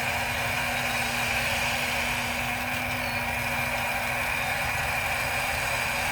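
Remote-control toy excavator running with a steady engine-like hum.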